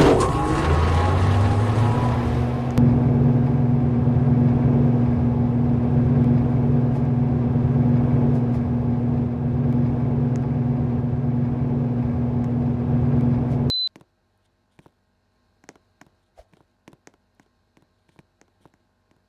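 Electric motor humming loudly and steadily, its pitch settling over the first couple of seconds as it comes up to speed, then cutting off abruptly after about 14 seconds with a short high beep; faint clicks follow.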